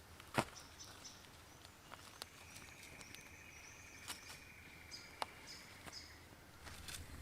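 Faint rainforest ambience: birds chirping in short high notes, with a thin steady high tone held for about four seconds in the middle. A few sharp clicks or pops sound over it, the loudest about half a second in.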